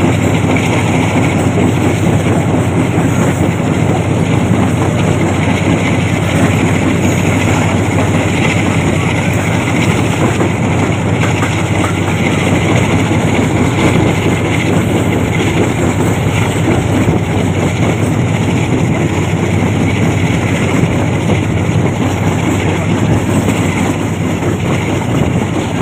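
Passenger train coaches running along the track, heard from an open window: a steady, loud rumble of wheels on rails.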